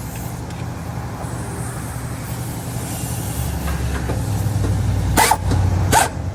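Shop air compressor running with a steady low hum. Near the end come two short, loud hissing bursts of a pneumatic air tool, under a second apart.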